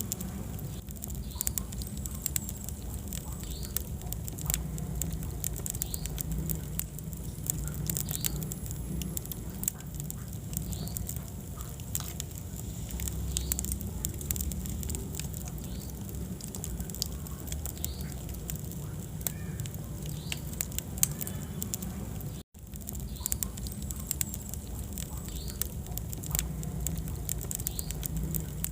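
Wood fire in a fireplace crackling, with frequent sharp pops and snaps over a steady low rumble of the flames. The sound cuts out for an instant about two-thirds of the way through.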